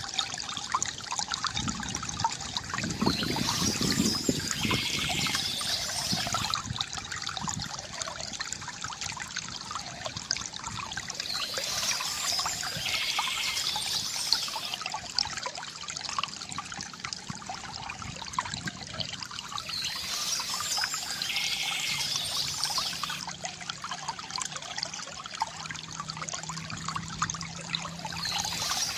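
Water trickling and gurgling steadily from a bamboo water fountain, with birds chirping in spells that come back about every eight or nine seconds.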